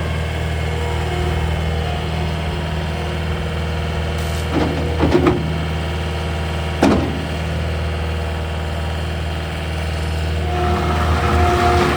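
A 2021 Kubota SSV75 skid steer's 73 hp diesel engine running steadily, with a few sharp knocks in the middle. Near the end the sound gets louder and a whine comes in over the engine.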